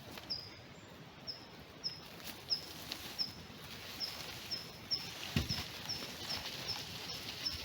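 A small bird calling: one short, high, slightly falling chirp repeated about twice a second. A soft thud comes about five and a half seconds in.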